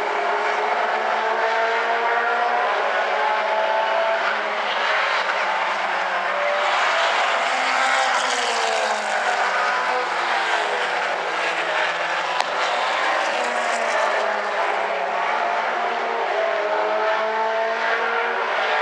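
Several late model stock car engines running at speed around an oval, their pitches rising and falling and overlapping as the cars go by.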